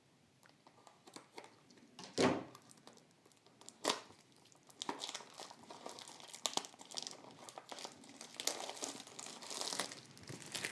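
Packaging being cut open with a knife: two sharp tearing strokes about two and four seconds in, then steady crinkling as the wrapping is pulled and handled.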